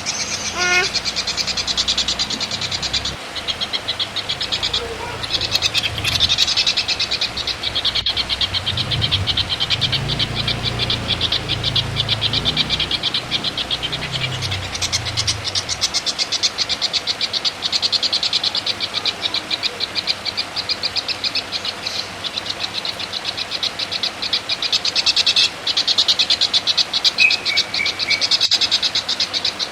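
Songbird masteran recording: a fast, continuous, high-pitched chattering trill runs without a break. Some short descending notes come near the start, and a faint low hum sits underneath in the middle.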